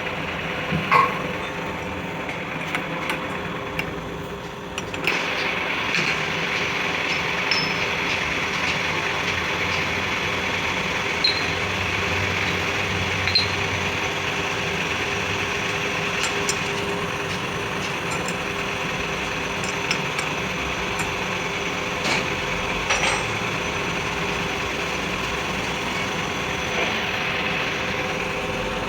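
A motor-driven workshop machine running steadily, with a few short metallic clicks and knocks.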